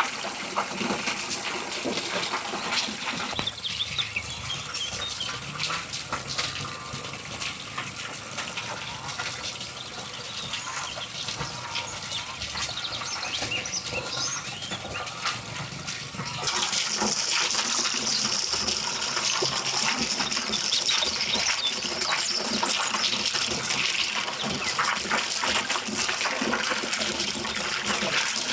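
Water running or pouring as a steady rushing hiss, which gets suddenly louder and brighter about sixteen seconds in.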